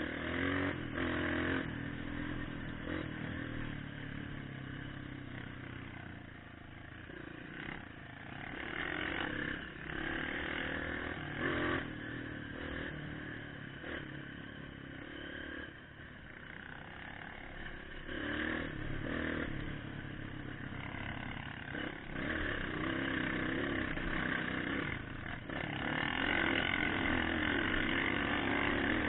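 Trail motorcycle engine running under throttle, its revs rising and falling repeatedly as the bike is ridden along.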